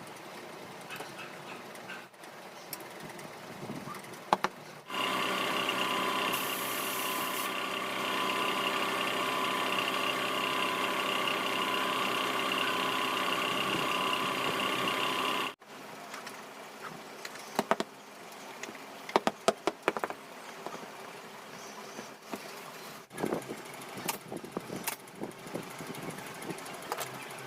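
A small electric motor runs steadily for about ten seconds, starting and stopping abruptly. Before and after it come scattered sharp clicks and taps of hand work.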